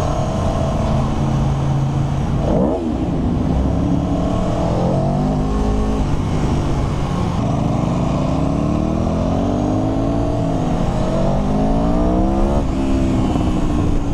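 Aprilia Tuono V4 1100 RR's V4 engine, on its stock exhaust, revving as the bike is ridden: the pitch climbs and drops several times, with longer rising pulls in the second half, as it accelerates and shifts or eases off.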